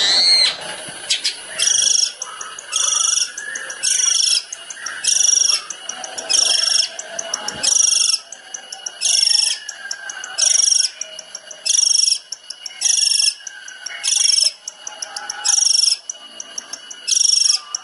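Long-tailed shrike (cendet) singing: about a dozen short bursts of rapid high notes, repeated roughly once a second, with quicker faint ticking notes between them.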